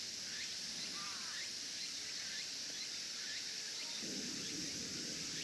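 Outdoor ambience: a steady high-pitched insect drone with birds chirping now and then. About four seconds in, a low rustling noise joins.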